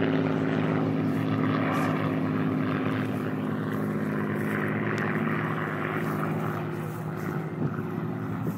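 Piston engines of a Second World War propeller aircraft droning steadily just after take-off. The sound fades slowly as the aircraft climbs away.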